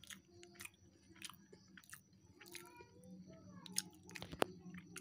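A person chewing a mouthful of chow mein noodles, with scattered irregular clicks; two sharper clicks come near the end.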